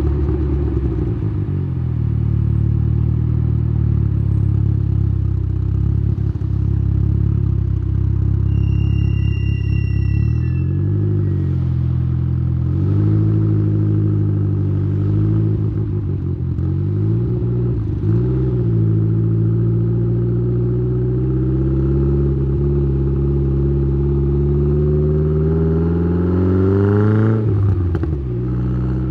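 Exhaust-mic sound of a tuned Saab 9-3's turbocharged B204 2.0-litre four-cylinder, running through a 3-inch downpipe and Simons muffler. The engine hums at a steady cruise, then rises and falls in pitch a few times before one long pull climbs steadily for about eight seconds and drops off sharply near the end as the throttle lifts or it shifts. A brief high whistle sounds about nine seconds in.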